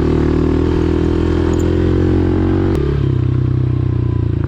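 A 110cc single-cylinder pit bike engine running steadily under throttle. About three seconds in the revs drop sharply, with a click, to a lower, slower, pulsing run.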